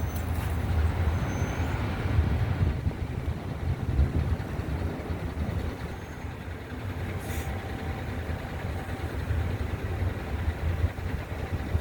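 Wind gusting across the microphone, an uneven low rumble that rises and falls throughout.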